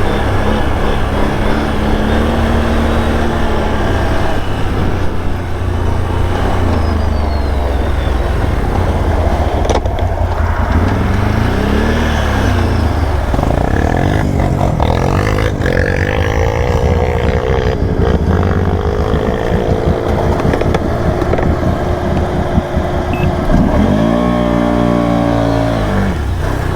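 ATV engine running under load and revving up and down through mud, with a sharp rise and fall in pitch near the end.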